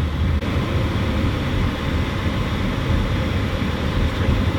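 Steady low rumble with a hiss: road noise of a moving vehicle.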